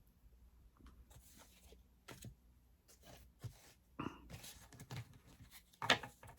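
Faint rustling and light clicks of trading cards being handled and flipped through, with a few sharper ticks about four and six seconds in.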